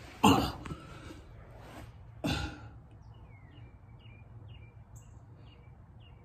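Two short breathy vocal sounds from a person, like a sigh or a sneeze, then a small bird chirping, short falling chirps about every half second.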